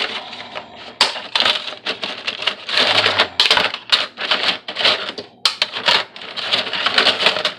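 Dry lasagna noodles being snapped in half by hand: a fast, irregular run of sharp cracks and crunches, with a brief break about five and a half seconds in.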